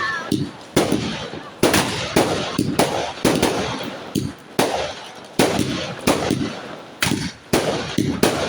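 Fireworks going off in an irregular rapid string of sharp bangs, about two a second, each with a short echoing tail.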